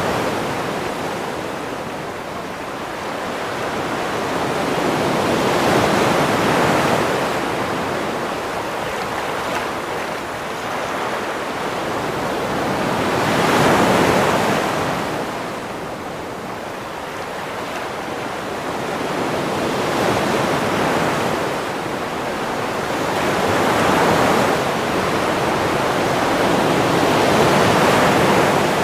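Sea waves breaking on a shore: steady surf noise that swells and eases in about five slow surges, each several seconds apart.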